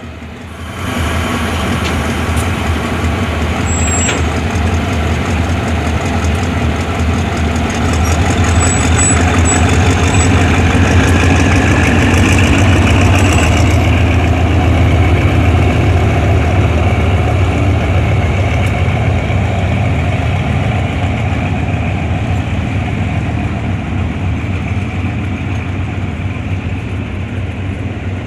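Diesel locomotive engine running heavily. It grows louder about eight seconds in and then slowly eases off.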